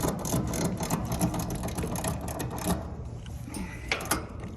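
Ratcheting service wrench clicking rapidly as it turns an air-conditioner liquid-line service valve stem closed, then slowing to a few separate clicks near the end.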